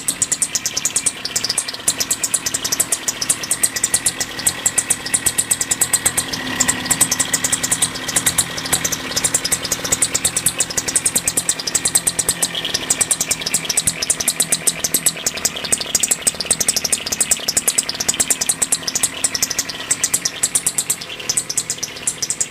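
Carver MHT-3.8S outboard motor running, its exhaust discharging into the water as a rapid, even string of pulses.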